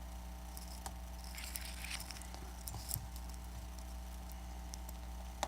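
Faint clicks and light scratching of a small Phillips screwdriver working the screws of a bracket inside an iPad Air 2, over a steady low electrical hum.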